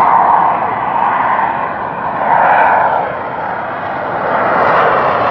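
Jet engines of the U.S. Navy Blue Angels' F/A-18 Hornets on a slow pass: a steady loud rushing noise that swells briefly about two seconds in, then eases.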